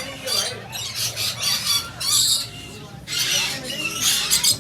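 A group of small birds chirping and squawking in quick, overlapping bursts of high-pitched chatter.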